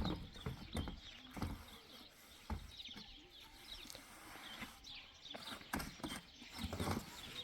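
Livestock moving about: irregular hoof knocks and thumps, with high chirping calls.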